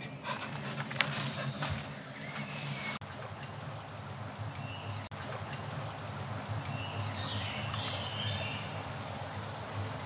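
Woodland ambience with birds calling: short high chirps repeating, and a warbling phrase about seven seconds in. In the first few seconds there are scattered knocks and scuffs.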